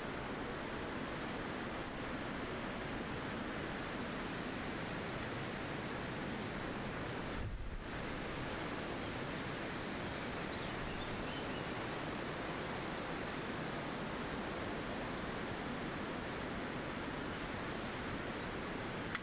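Steady wind rushing through forest trees, an even noise with no pauses that briefly loses its hiss about seven and a half seconds in. A couple of faint, high bird chirps come about halfway through.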